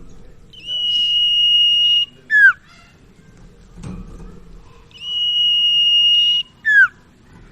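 Sirtu (cipau) bird song as played on a masteran recording. Each phrase is a long, level, high whistle held about a second and a half, followed by a short, loud note sliding downward. The phrase comes twice.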